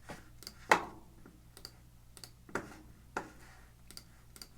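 Irregular clicks and taps at a computer, about half a dozen, the loudest a sharp click just under a second in.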